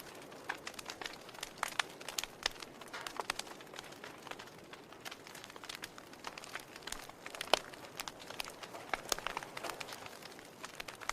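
Wood fire crackling: a soft hiss of burning logs with irregular sharp pops and snaps throughout, one louder pop about halfway through.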